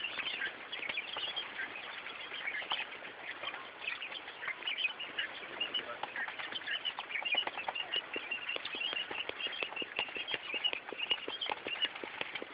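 Quail dust-bathing in sand: a steady patter of scratching and wing-flapping in the sand, denser in the second half, with many short, high chirps from several birds.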